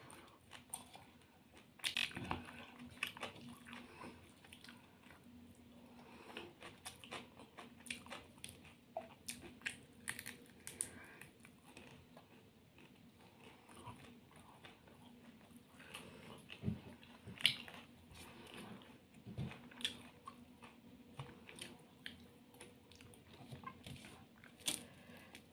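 Close-up sounds of a person eating by hand: chewing and biting, with many small scattered mouth clicks and smacks, over a faint steady hum.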